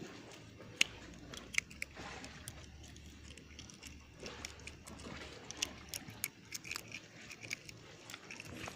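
Scattered small clicks, taps and rustles of a freshly caught fish and its swallowed hook being handled, over a faint steady hiss.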